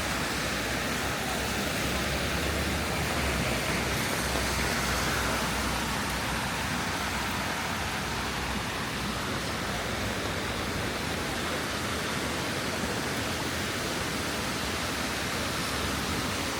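Steady rain falling, an even hiss with no breaks. A low rumble sits under it for the first few seconds, then fades.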